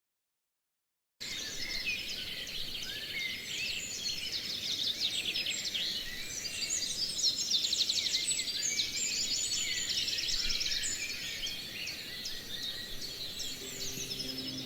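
Dead silence for about a second, then a dense chorus of many songbirds chirping and trilling over a faint steady hiss; music starts to come in right at the end.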